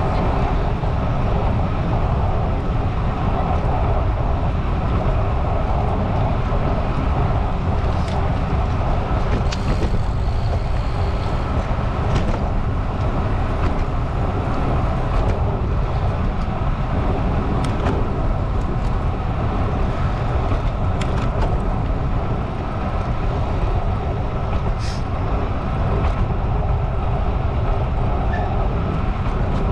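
Steady wind rush and road noise from riding a bicycle, the wind buffeting the microphone as a heavy low rumble, with a few faint clicks.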